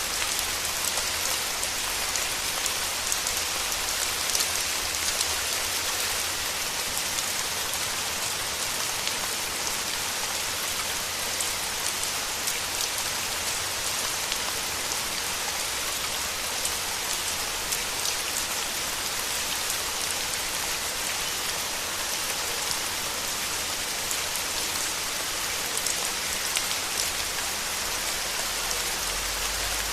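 Steady rain falling: a dense, even hiss of many drops, with scattered louder single drop hits.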